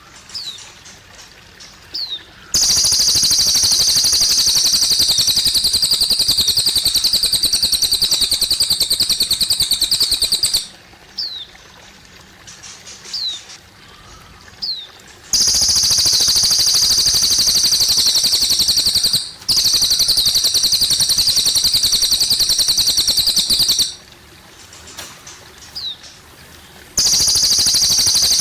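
A cililin bird singing long, loud, very fast trilling phrases of several seconds each, separated by short pauses with a few brief falling chirps. Faint trickling water runs underneath.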